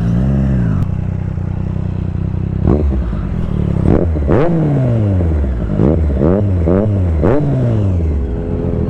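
Sport motorcycle engine through a loud aftermarket exhaust, running steadily at first, then blipped hard several times from about three seconds in, the revs jumping up and sliding back down after each blip.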